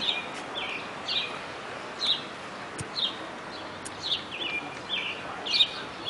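A songbird calling over and over: about ten short chirps, each sliding down in pitch, repeated every half second to a second.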